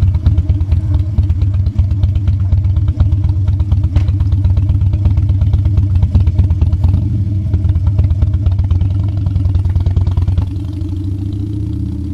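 Harley-Davidson Dyna's V-twin engine running under way, a dense stream of exhaust pulses, dropping to a quieter, steadier note about ten seconds in.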